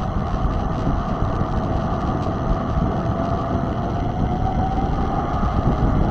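Riding noise from a mountain bike under way: wind buffeting the microphone and a continuous rolling rumble, with a steady hum that drifts slightly up and down in pitch.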